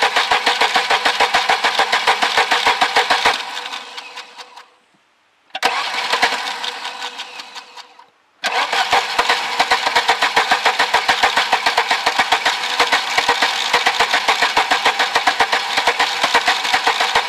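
Volvo 740 engine being cranked by its starter after sitting six years, turning over in an even rhythm of about five beats a second without catching. The cranking stops twice, about three seconds in and again around eight seconds, each time dying away briefly before it starts again.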